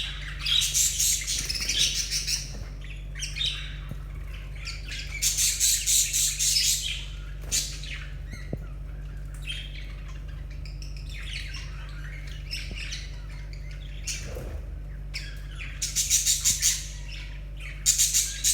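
Budgerigars chattering and squawking in repeated harsh, buzzy bursts with short pauses between, over a steady low hum.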